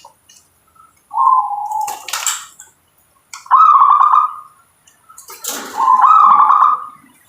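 Zebra dove (local perkutut) cooing: three rolling, rapidly pulsed coo phrases. A brief noisy rustle comes in twice.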